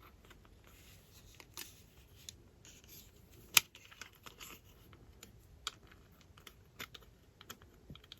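Small plastic model-kit parts being handled and pressed into place: scattered light clicks and scratchy rustling, with one sharp click about three and a half seconds in.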